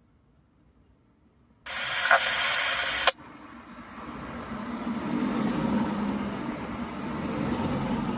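Radio scanner bursting with static for about a second and a half, starting about two seconds in and ending with a squelch click, as an open transmission carries no voice. Then a steady rushing noise swells and eases, like a vehicle passing.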